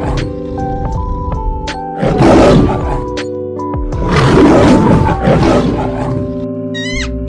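Lioness calling: two loud, rough, rasping bursts, one about two seconds in and a longer one about four seconds in, over background music with held tones.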